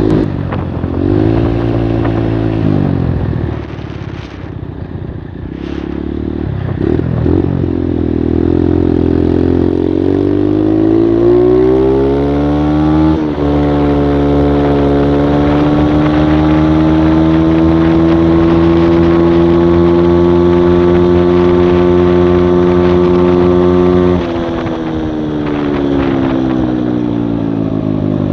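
Skyteam Monkey moped's 85cc four-stroke single engine under way, its clutch by the owner's account slipping badly. The revs fall away and run low for a few seconds, then climb steadily, step with a gear change about 13 seconds in, and hold high and steady. Near the end they drop sharply as the throttle closes, then start to rise again.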